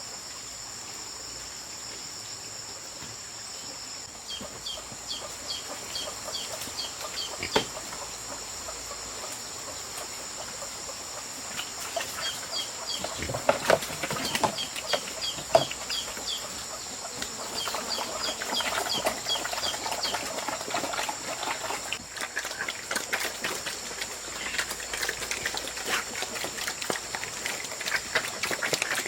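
Chickens clucking, with a run of short high peeps repeated about twice a second, over a steady high drone of crickets.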